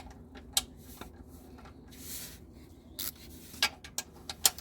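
Scattered metal clicks and clinks of a long ratchet and socket being set on an over-tightened oil drain plug, with a short scrape about two seconds in and the loudest click near the end.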